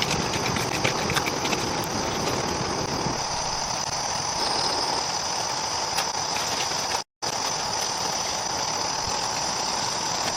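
Rainforest ambience: a steady chorus of insects over a continuous noisy background, with scattered light clicks and a brief drop-out about seven seconds in.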